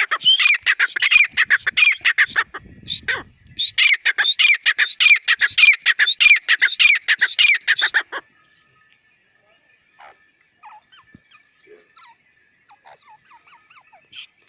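Teetar partridge calling: two loud bouts of rapid, repeated ringing notes, the first ending about two seconds in and the second running from about four to eight seconds in. After that only faint, scattered chirps.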